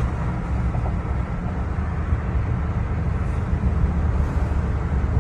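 Truck driving along with a steady low engine and road rumble.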